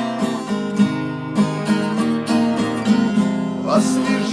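Acoustic guitar strummed in a steady rhythm, its chords ringing between the sung lines of the song.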